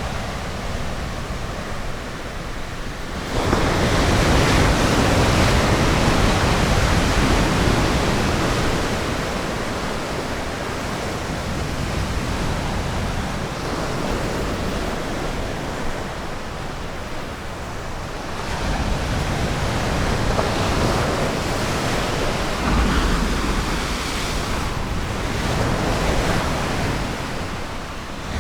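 Ocean surf washing onto a beach: a continuous rushing wash that swells louder as waves break, about three seconds in and again around eighteen seconds.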